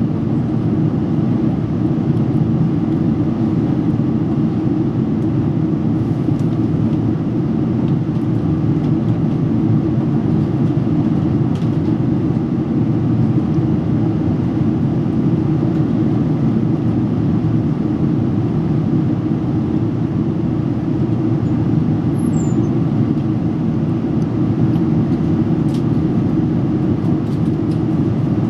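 Steady cabin noise inside a Boeing 777-300 airliner in descent: an even low rumble of engines and airflow, with a few faint ticks near the end.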